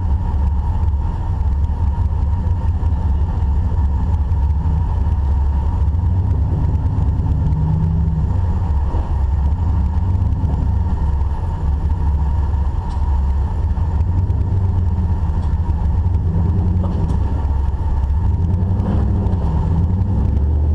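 Off-road Jeep's engine running steadily under a heavy low rumble, its note rising and falling a little as the vehicle crawls.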